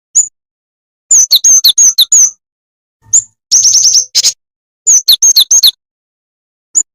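Jingjing tetep bird calls played as a lure: loud, sharp, high chirps in uneven bursts, some with a lower second note, with a quick trill a little past the middle and single chirps at the start and end.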